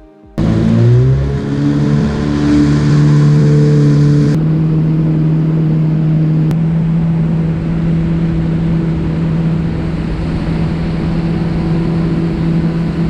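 Yamaha WaveRunner engine running under way, its pitch rising briefly just after it comes in and then holding steady, with water and wind noise over it.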